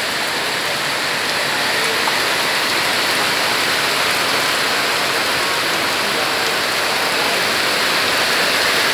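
Heavy tropical downpour: a steady hiss of dense rain falling on the ground, roofs and parked vehicles. It is plain rain, not hail.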